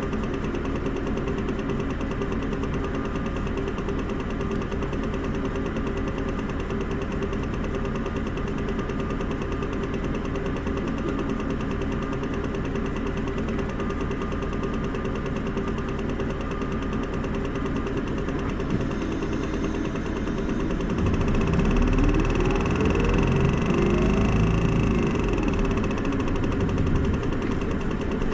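Isuzu Erga city bus's four-cylinder turbo diesel running steadily at idle, then rising in pitch and level about three-quarters of the way through as the bus pulls away and accelerates, with a second rise a couple of seconds later.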